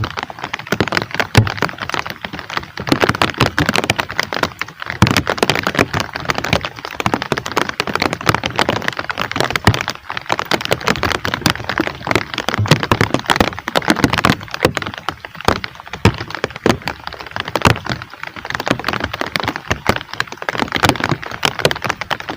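Heavy rain, drops striking close to the microphone as a dense, continuous crackle.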